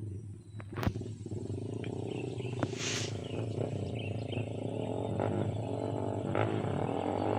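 Small motorcycle engine running at a steady low speed, slowly getting louder, with a few sharp clicks in the first few seconds.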